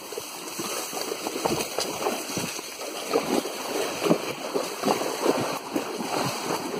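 Horses wading into a river, water sloshing and splashing irregularly around their legs.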